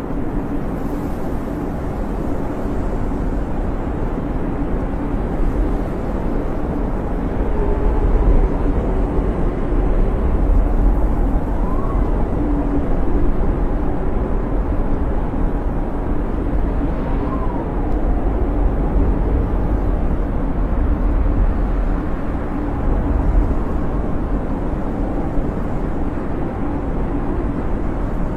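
Snowstorm wind blowing steadily as a deep rumble, with two faint whistles that rise and fall in pitch near the middle.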